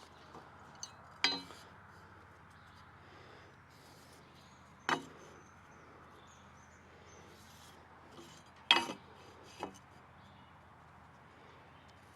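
Four sharp clinks and knocks of small hard objects being handled, spaced a few seconds apart, over a faint steady background.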